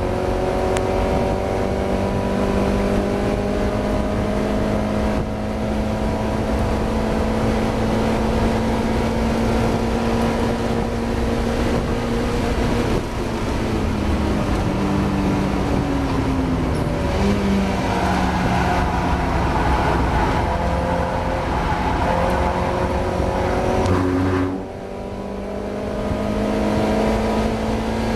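Mazda MX-5 race car's four-cylinder engine at sustained high revs under full throttle. The pitch drops and climbs back about halfway through, and the engine briefly goes quieter about three-quarters of the way in before pulling again. The engine is suffering a misfire during the race.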